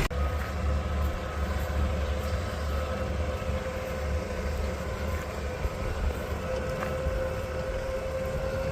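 Lamborghini tractor engine running steadily, with a thin steady whine over the hum.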